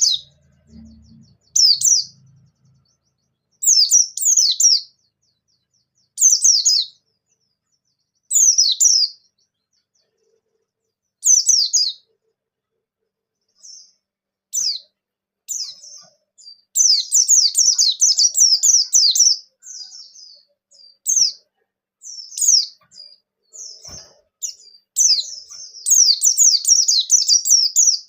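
White-eye (pleci bustomi) singing: short phrases of quick, high, falling twittering notes every two to three seconds. The bird then breaks into longer unbroken runs of rapid chatter around the middle and again near the end.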